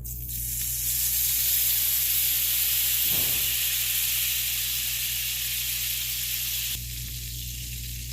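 Lemon juice squeezed into a pan of hot browned butter, sizzling and hissing as it hits the fat. The sizzle swells within the first second, holds, then drops off sharply about seven seconds in.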